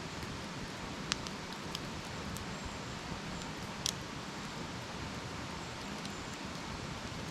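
Wood campfire burning with a steady hiss and sharp crackling pops, the loudest two about a second in and just before four seconds in.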